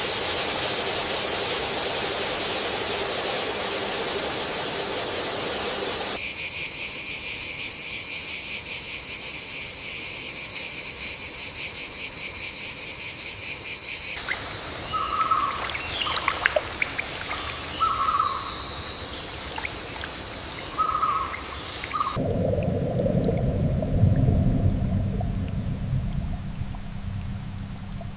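Rainforest ambience that changes abruptly several times. First a steady hiss, then a steady high-pitched insect chorus, then a higher insect buzz with short calls repeating every second or two from frogs or birds, and near the end a low rushing noise like rain or running water.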